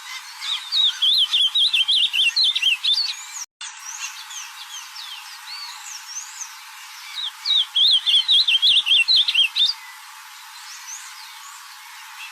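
Ultramarine grosbeak (azulão) singing: two quick warbled phrases, each about two and a half seconds long and several seconds apart, over faint chirps of other birds.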